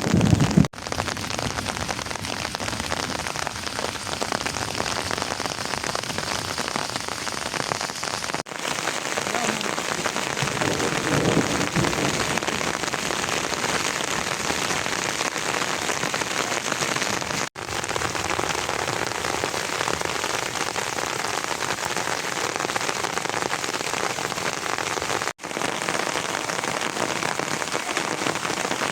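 Steady, heavy rain falling. The sound drops out for an instant a few times, where clips are joined.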